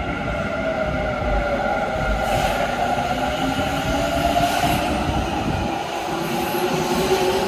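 Kintetsu electric train running at the station: low rail rumble under several steady tones and slowly gliding whines.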